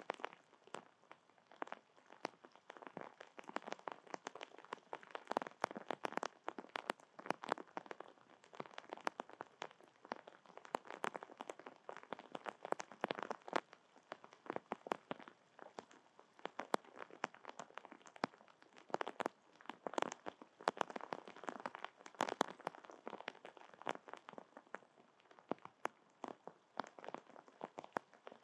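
Rain falling on surfaces close to the microphone: a dense, irregular stream of drops ticking and tapping, many each second.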